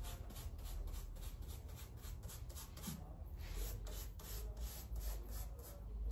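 Paintbrush stroking quickly across a styrofoam surface, a dry rubbing scratch repeated about three or four times a second.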